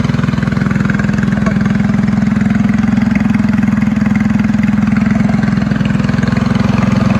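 Predator 224 single-cylinder four-stroke minibike engine, with an aftermarket exhaust and the governor bypassed, idling steadily.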